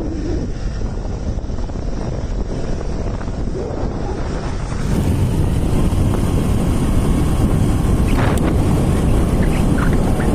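Wind buffeting the microphone of a moving motorcycle, over a low rumble from the ride, getting louder about five seconds in.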